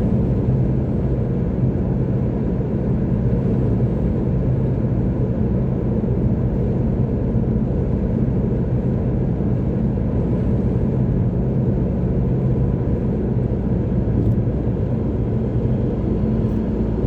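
Steady low drone of a car driving along a motorway: engine hum and tyre noise, unchanging throughout.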